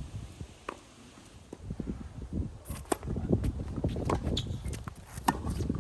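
Strong wind buffeting the microphone with a low rumble, rising from about two and a half seconds in, with many scattered sharp knocks over it, including a loud one at the very start.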